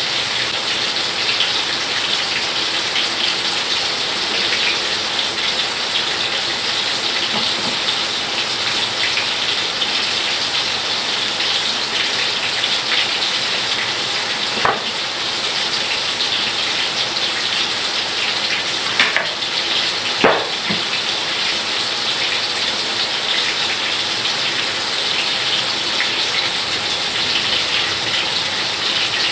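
Steady heavy rain, an even loud hiss throughout. A few light knocks and clinks of kitchen utensils come around the middle.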